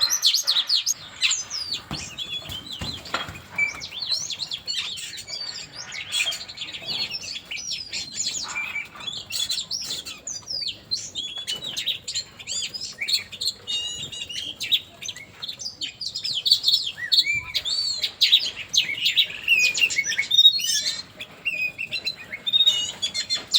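Songbirds singing: a dense run of overlapping quick chirps, slurred whistles and trills, several birds calling at once.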